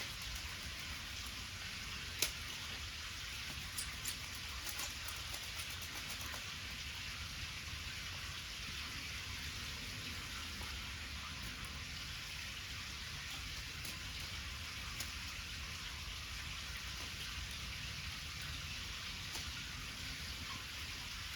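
Wood fire crackling: a steady hiss with scattered sharp pops, the loudest about two seconds in and a few more around four to five seconds.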